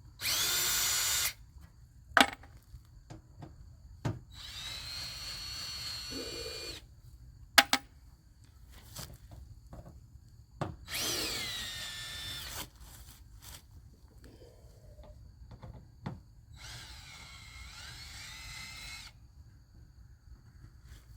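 Cordless drill running in four bursts of one to three seconds, its motor whine rising and falling in pitch, backing screws out of sheet-metal tin. A few sharp clicks come between the bursts.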